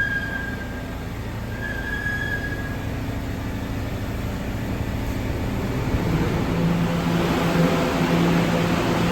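R211A subway train running on the rails, with a steady rumble and a brief high wheel squeal at the start and again about two seconds in. From about six seconds the running noise grows louder and a low steady hum comes in.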